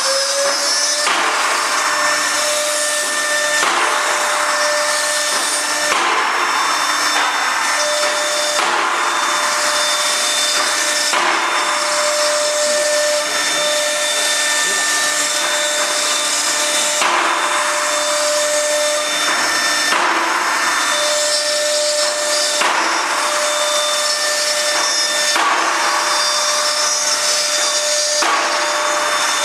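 CNC router spindle cutting wood for a door's lock and hinge recesses: a steady high whine with louder stretches of rough cutting noise that come and go every second or few seconds as the bit moves through the wood.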